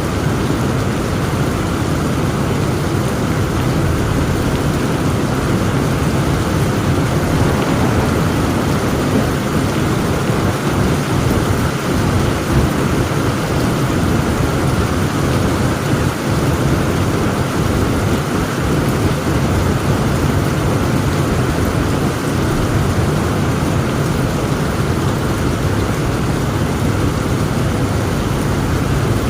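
Heavy thunderstorm: dense, steady rain with a low, continuous rumble of thunder underneath.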